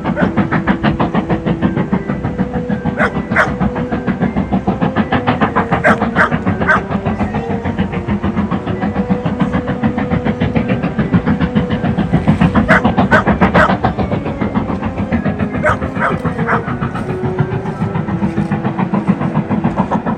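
Steam locomotive hauling its train across a viaduct: rapid, even exhaust chuffs with steam hiss, louder about two-thirds through as it passes nearest.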